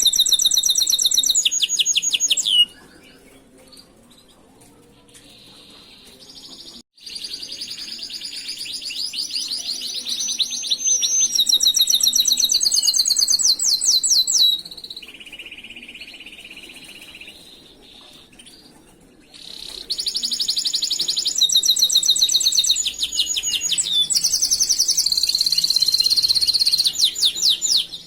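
Domestic canary singing in long phrases of fast, rapidly repeated trill notes. There are three loud stretches of song with quieter pauses between them, the second starting about seven seconds in and the third about twenty seconds in.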